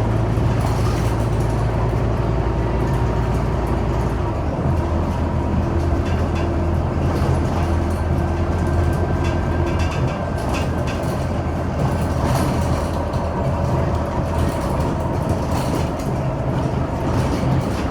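Scania Omnicity bus running on the road: a steady low engine hum with road noise and light rattles. The engine note steps down about four seconds in and stays lower.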